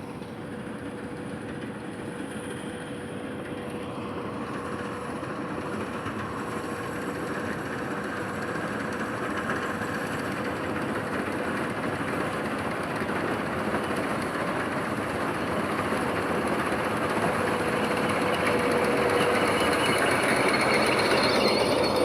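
A heavy vehicle's engine running steadily with a constant hum, growing gradually louder as it draws closer.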